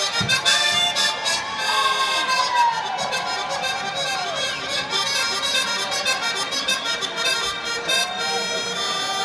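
Live rock band playing at an arena concert, heard through a phone's microphone: dense amplified music with sustained pitched lines, some bending notes and a steady beat, with no singing.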